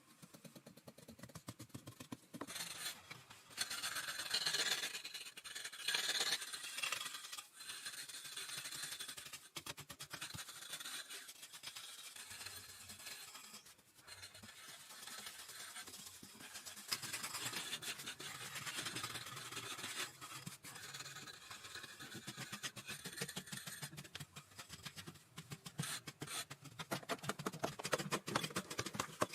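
Rough scraping and scratching in a dense run of strokes, loudest about four to seven seconds in, with quicker, closer strokes near the end.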